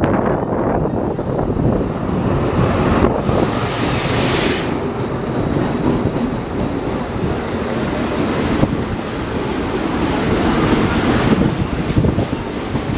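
Passenger train pulling into a station platform: a steady rumble of wheels and cars rolling past, with a burst of high hiss about three seconds in.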